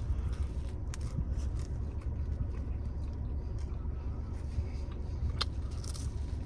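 Steady low rumble of an idling car heard from inside the cabin, with a few faint clicks of chewing.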